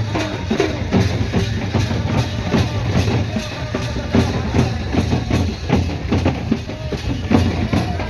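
Music driven by drums, with a fast, steady beat of strikes over a heavy low thud.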